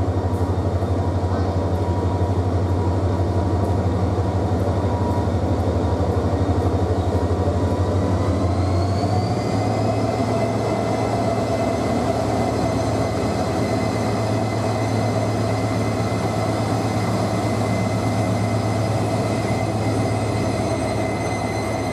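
Bangladesh Railway diesel locomotive running close past a station platform, followed by its passenger coaches rolling by, with a steady low engine hum. About nine seconds in, a high whine rises in pitch and then holds.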